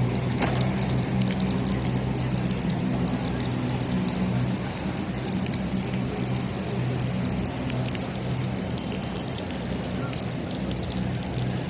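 Light rain falling, with fine ticks of drops and dripping over a wash of noise, and a steady low hum from a machine underneath.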